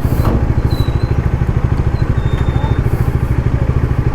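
Motorcycle engine running under way, a steady rapid pulsing engine note heard from the rider's seat, with a brief burst of noise right at the start.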